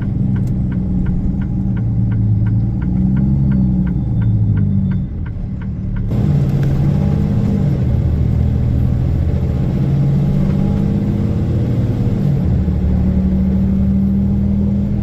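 Truck engine running, its pitch rising and falling, with a fast regular clicking over it that stops abruptly about six seconds in.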